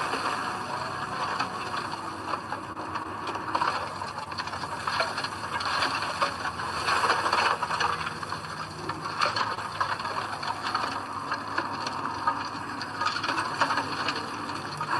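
Earthmoving machinery at work: a steady clattering, grinding mechanical noise full of small rattles and clicks.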